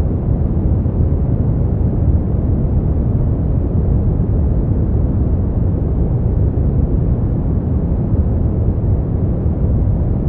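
Steady synthetic brown noise: a deep, even rumbling hiss, strongest in the bass and fading out in the treble, with no change throughout.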